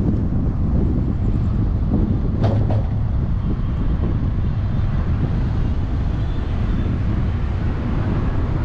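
Steady low rumble of a moving vehicle, with wind noise on the microphone and a brief faint click about two and a half seconds in.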